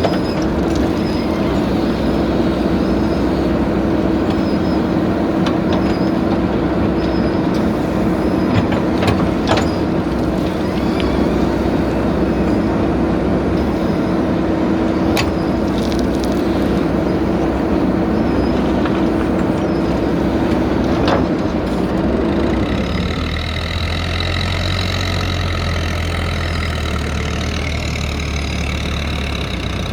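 Diesel engine of a backhoe loader running steadily, with a droning tone and occasional sharp knocks. About three-quarters of the way through, the sound changes to a low engine throb at idle with a high whine above it.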